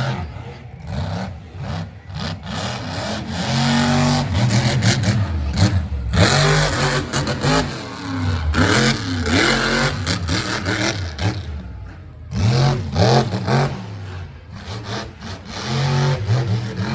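Monster truck engine revving hard over and over, its pitch climbing and dropping with each burst of throttle. About six seconds in, a loud rushing noise that lasts a couple of seconds joins it.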